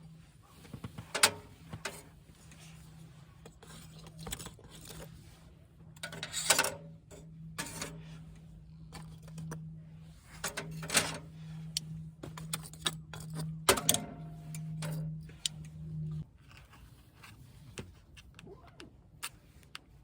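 Scattered clinks and knocks of small hard objects being handled, a few of them louder, over a steady low hum that cuts off about sixteen seconds in.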